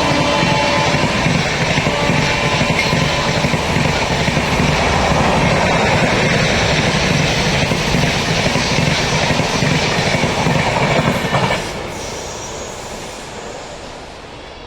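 Express train passing at high speed close by: loud rumble and clatter of the coaches' wheels on the rails, with the last of a horn note dying away at the very start. The noise drops off suddenly about eleven and a half seconds in as the train clears, then fades.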